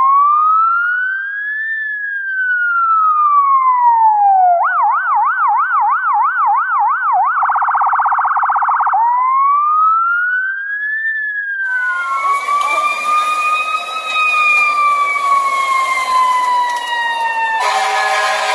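Electronic emergency-vehicle siren cycling through its tones: a slow wail rising and falling, then a yelp warbling about three times a second, then a very fast warble, then the wail again. About two-thirds of the way in it gives way to a siren wailing slowly over road noise.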